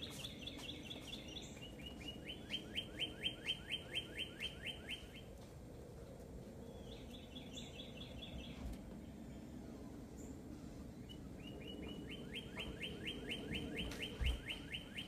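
A bird singing: phrases of quick, evenly repeated down-slurred whistled notes, each phrase a run of a dozen or so notes, coming several times with pauses between them.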